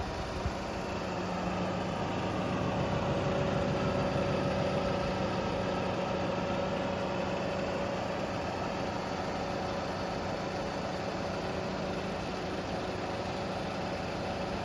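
Scania R520 crane truck's V8 diesel engine idling steadily, with a constant whine over the drone; it swells a little a few seconds in, then settles.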